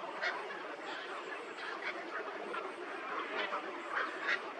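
A flock of birds calling over one another: many short calls in quick succession, with no pause.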